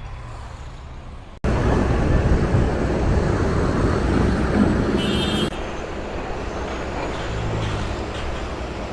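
Road traffic noise: engines running and a steady rushing of vehicles, jumping suddenly louder about a second and a half in and easing back to a steadier hum about halfway through.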